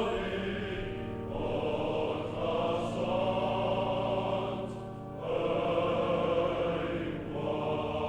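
Choral music: a choir singing long held notes in slow phrases.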